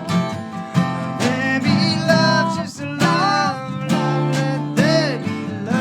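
Live band playing: strummed acoustic guitar with regular beat strikes under a sustained chord, and a singing voice gliding between held notes.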